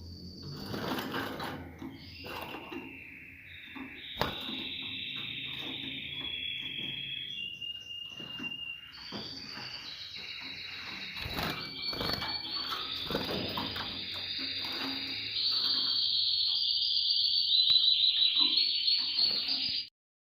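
Spanish Timbrado canaries singing: long rolling trills and held ringing notes, louder in the second half and cutting off abruptly near the end.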